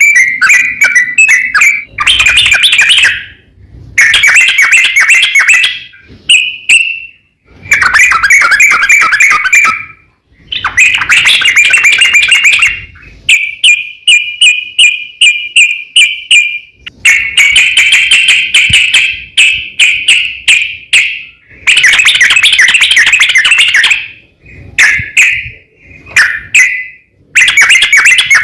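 Yellow-vented bulbul (trucukan) song played loud as a lure: repeated bursts of rapid, bubbling chattering notes, each one to three seconds long, with short gaps between them and one steadier trill about halfway through.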